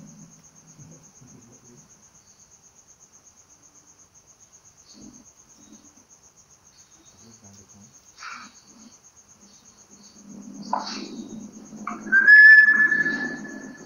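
Crickets chirping steadily in a fast pulsing trill throughout. Near the end a single loud whistle-like tone slides up, then holds steady for about a second and a half, over faint low voices.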